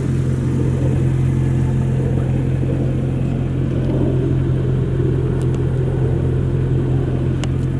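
A car engine running at a steady low hum.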